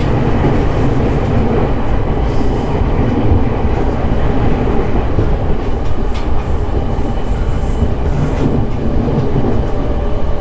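Running noise heard inside a JR East E217-series electric commuter train travelling steadily: a constant rumble of wheels on rail, with a few sharp clicks from the track.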